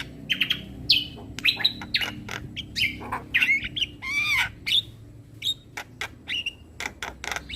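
Javan myna (jalak kebo) calling: a rapid jumble of harsh squawks, sharp clicks and short whistled notes, with a longer rising-and-falling whistle about halfway through.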